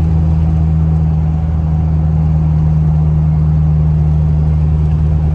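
A lifted pickup truck being driven at a steady speed: a steady, loud low engine drone over road noise.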